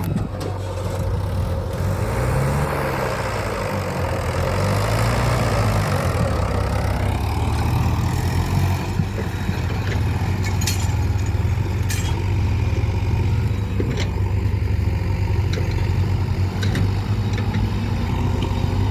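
Heavy diesel engine running at low revs. It rises and falls unevenly over the first several seconds, then settles to a steady run, with a few light clicks in the second half.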